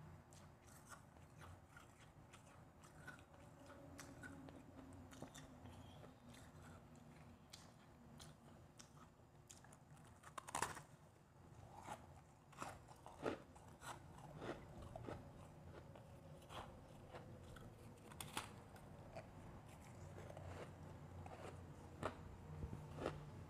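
A person chewing and crunching refrozen, powdery blended ice: irregular crisp crunches, with the loudest bites about ten seconds in and again near eighteen seconds.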